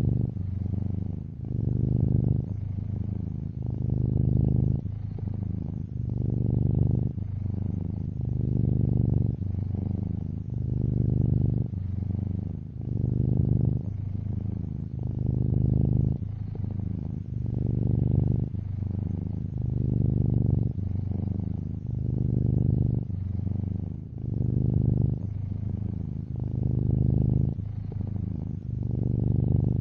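Domestic cat purring close up: a steady low rumble that swells and eases with each breath, about one cycle every one to two seconds.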